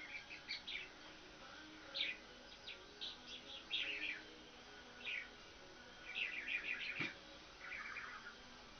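Small birds chirping: scattered short high chirps with a few quick trills of rapid repeated notes.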